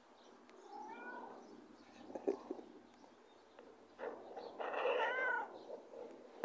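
Domestic cat meowing twice: a short, faint rising meow about a second in, then a longer, louder meow about five seconds in.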